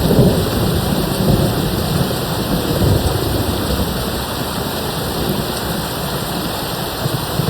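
Steady rain with a low rumble of distant thunder, strongest in the first few seconds and then easing off.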